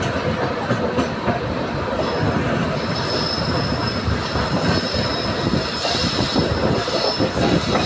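Passenger train climbing a steep gradient, heard from inside a coach: a steady rumble and rattle of wheels and carriage, with a high-pitched steel wheel squeal setting in about two seconds in and holding.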